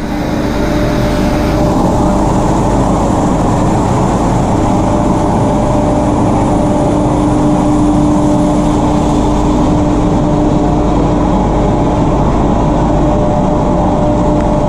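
Train running: a steady mechanical rumble with a constant low hum.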